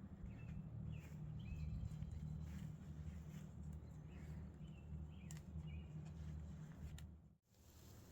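Faint outdoor ambience: a few short bird chirps over a low steady rumble. The sound drops out briefly near the end, then there is a sharp click.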